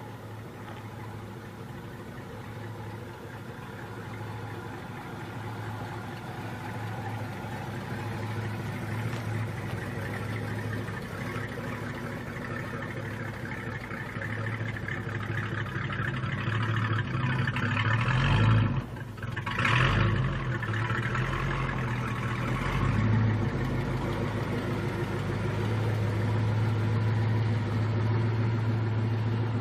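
A car engine running steadily and growing gradually louder, then briefly dropping and surging again about two-thirds of the way through before settling back to a steady run.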